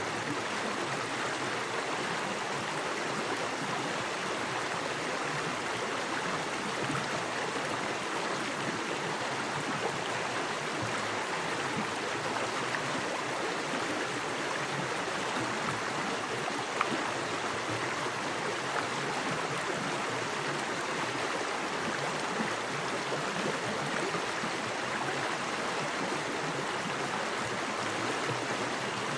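Small forest creek of fast water running over rocks: a steady, even rush of water, with one brief tick a little past halfway.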